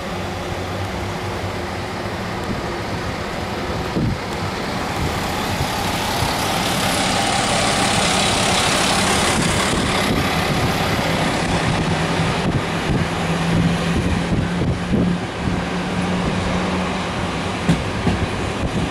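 Train running as it pulls out of a station: a steady rumble of wheels on rails that grows louder and fuller about a third of the way in, with a low steady hum and scattered knocks in the second half.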